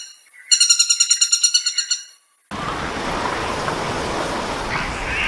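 An animal's rapid pulsed trill, about nine pulses a second, that stops about two seconds in. After a brief silence comes a steady rushing noise.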